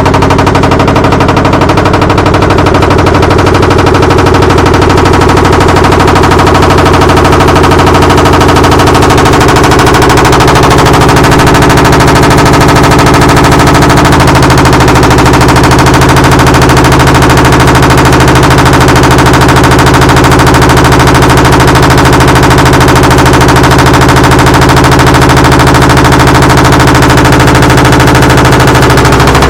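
Broken LG washing machine in the final phase of its spin cycle at 800 rpm, giving off a loud, rapid, continuous banging rattle over a steady drone. The drone shifts a little about halfway through.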